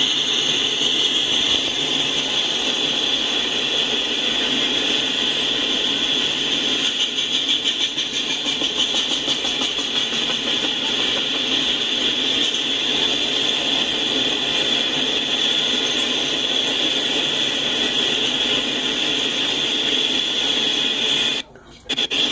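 Freight cars loaded with steel coils rolling past on the rails, a steady rolling noise with a constant high-pitched ring over it. The sound cuts out abruptly for about half a second near the end.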